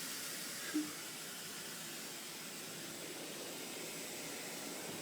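Steady hiss of caked snow melting and steaming off the hot engine of a just-shut-down 1972 Gravely Commercial 12 tractor, with one short knock just under a second in.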